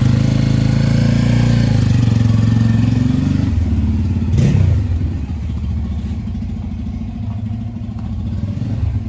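Motorcycle engine running, loud for the first three seconds or so, then settling lower and quieter, with a brief swell about four and a half seconds in.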